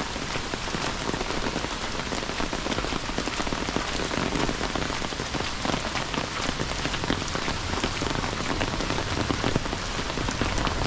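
Steady rain falling, with a dense patter of individual drop hits.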